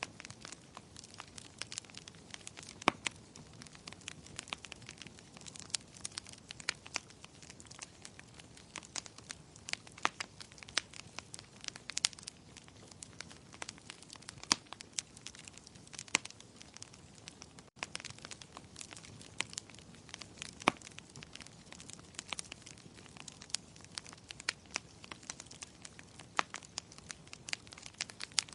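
Fire crackling in a fireplace: irregular sharp pops and snaps over a soft, steady hiss, with a momentary gap about two-thirds of the way through.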